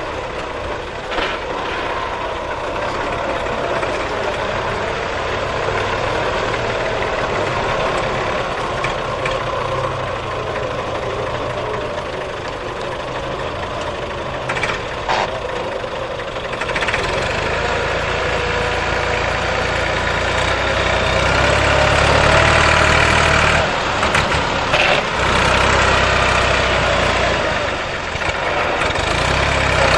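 Tractor diesel engines running steadily, growing louder about 17 seconds in and again past 21 seconds, with a few short sharp knocks along the way.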